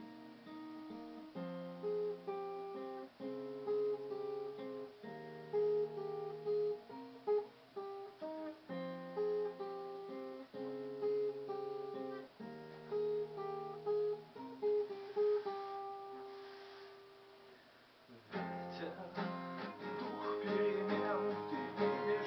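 Guitar music: an instrumental intro of held chords that change about every second. It dies down, and a fuller, brighter strummed passage starts about eighteen seconds in.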